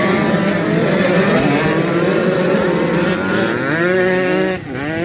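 Motocross bike engine revving as it rides, its pitch rising and falling with the throttle. Near the end it drops sharply and climbs again.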